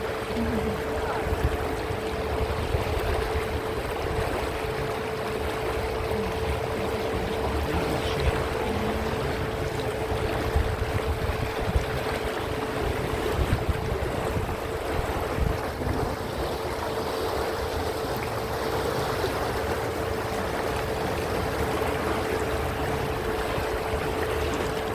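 Canal tour boat's motor running steadily, a constant mid-pitched hum over a low rumble and the wash of water.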